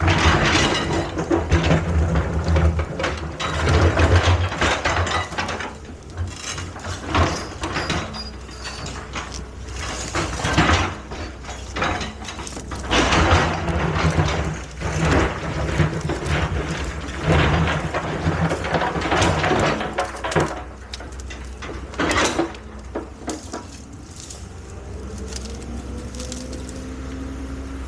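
Excavator at work: its diesel engine surges again and again under hydraulic load, with repeated metallic clanks and knocks. Near the end the engine's pitch climbs steadily.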